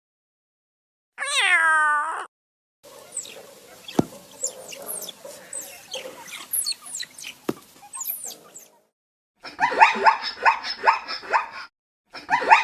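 A cat gives one drawn-out meow that falls in pitch. A stretch of scattered faint chirps and clicks follows. Near the end a dog barks rapidly, several sharp yaps a second.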